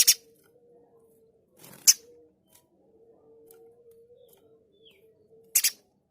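Spiderhunter (pijantung gunung) giving short, harsh, rasping call notes. There is a double note at the start, a single note about two seconds in, and another double note near the end, over a faint steady hum.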